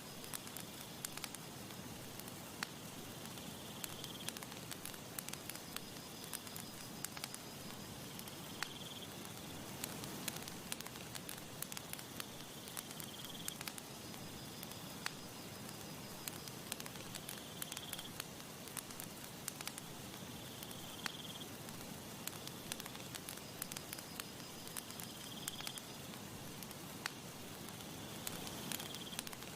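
Campfire crackling and popping steadily, with many sharp snaps over a soft hiss. A faint high tone repeats every four to five seconds behind it.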